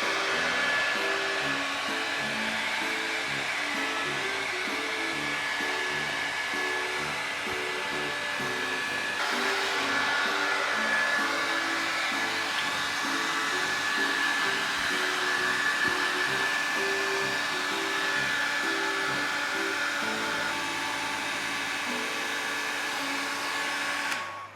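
Hair dryer blowing steadily under background music, cutting off suddenly near the end.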